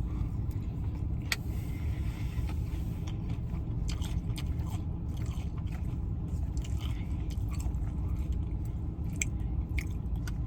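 Eating sounds: chewing and scattered small clicks, over a steady low rumble.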